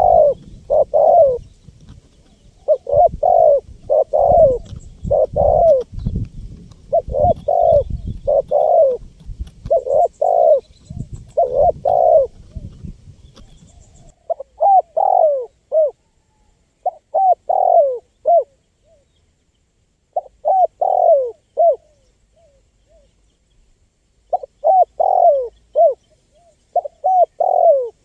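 Spotted dove (tekukur) cooing over and over in short phrases of several notes, with brief pauses between them. A low rumble sits under the calls for the first half and stops about halfway through.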